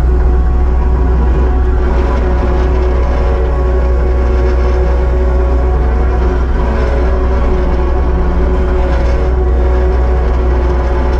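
Kubota SVL75-2 compact track loader's diesel engine running steadily under work, with a deep hum and a pitch that dips and rises slightly about halfway through.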